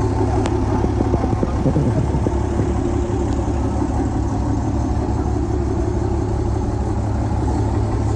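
A truck engine idling steadily, a low, even hum, with a single sharp click about half a second in.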